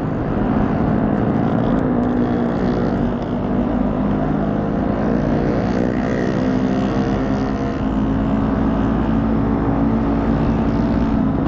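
Motorcycle engines running on the move, the nearest bike's engine note rising and falling in pitch as it pulls away and changes speed.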